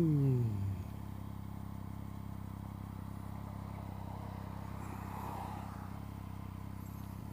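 Triumph Speed Triple's three-cylinder motorcycle engine, its revs falling sharply in the first second as the throttle closes, then running steadily at low revs.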